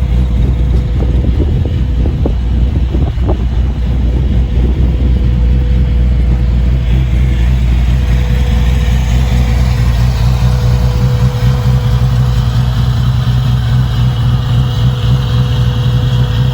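2006 LS2 V8 with a Stage 3 camshaft idling steadily in a 1952 Chevrolet 3100 truck, with no revving.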